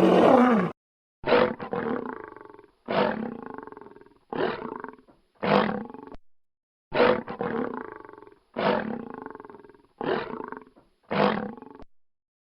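Lion roaring in a series of about eight short roars, each starting sharply and fading away, one every second or so.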